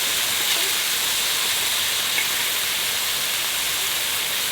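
Steady rushing hiss of a mountain valley stream, even and unbroken.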